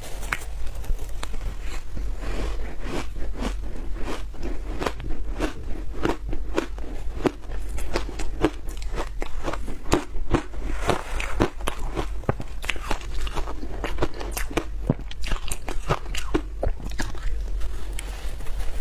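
Close-miked biting and chewing of hard frozen food, a dense run of irregular sharp crunches and crackles, over a steady low hum.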